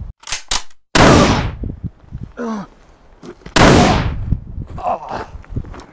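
Two gunshots about two and a half seconds apart, each a sharp bang with a long fading tail, with a short vocal cry between them.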